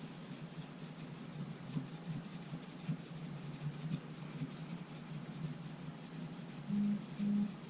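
Cloth or fingertip rubbing and scrubbing on the small glass of a camera LCD panel, stripping its flaking outer coating, in irregular light strokes over a steady low hum. Two short low buzzes sound close together near the end.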